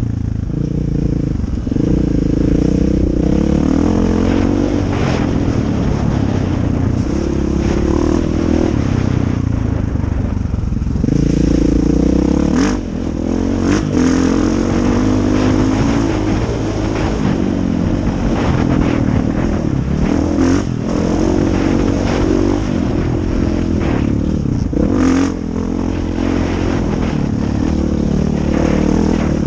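Dirt bike engine being ridden along a rough trail, the revs climbing and dropping over and over as the throttle is worked. Scattered sharp knocks and clatter are heard throughout.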